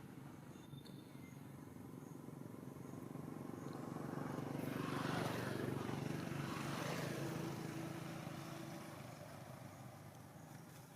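A motor vehicle passing by, its engine and tyre noise swelling to a peak about halfway through and then fading away.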